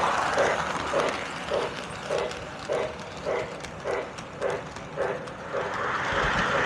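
O gauge Lionel LionChief 4-4-0 model steam locomotive running, its chuff sound beating steadily a little under twice a second over the rolling noise of the wheels on track. The rolling noise is quieter in the middle.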